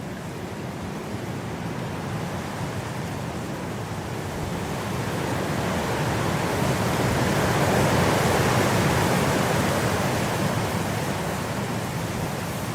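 Blizzard wind blowing steadily, a gust swelling to a peak a little past halfway and then easing off.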